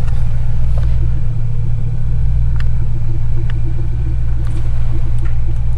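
1999 Lincoln Town Car's 4.6-liter V8 idling with a steady low rumble.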